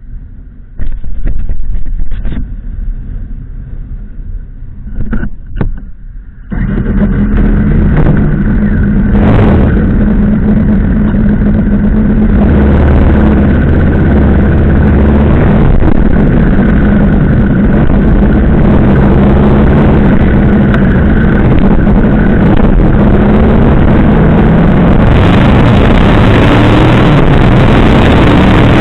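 Yamaha VMAX 1700's V4 engine. The first six seconds hold a few sharp knocks, then the sound jumps suddenly and holds loud and steady as the motorcycle rides, engine and wind noise together.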